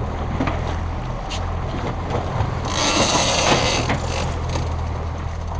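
Boat engine running steadily with a low hum, under wind and water noise, with a louder hissing rush of spray or wind for about a second midway.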